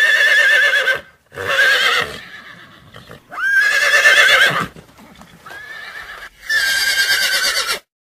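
Horse whinnying four times in a row, each call about a second long with a shaky, quavering pitch.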